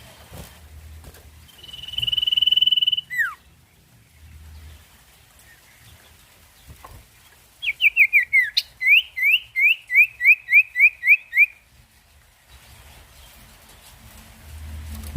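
Sirtu songbird singing: a long steady high whistle ending in a quick falling note, then a few seconds later a fast run of about fifteen short rising chirps lasting about four seconds.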